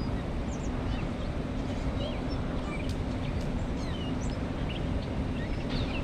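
Birds chirping, many short, varied high calls scattered throughout, over a steady low rumble.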